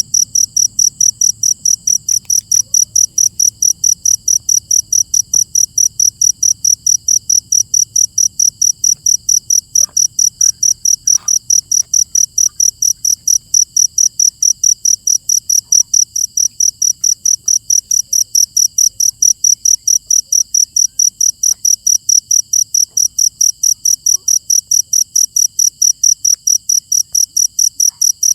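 Cricket chirping loudly in a steady, even rhythm of about three high-pitched chirps a second.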